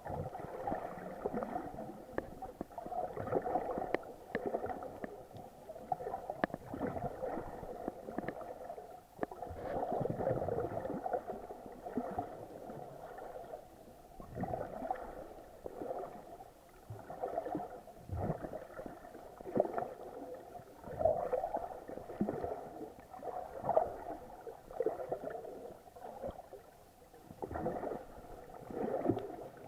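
Muffled water sloshing and gurgling heard through an action camera's waterproof housing while snorkeling, swelling and fading irregularly every second or two.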